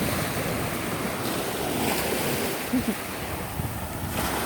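Ocean surf washing onto the beach, a steady rushing wash, with wind buffeting the microphone.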